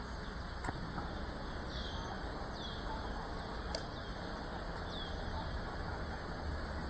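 A bird giving a short, falling call about once a second over steady outdoor background noise, with a couple of faint clicks.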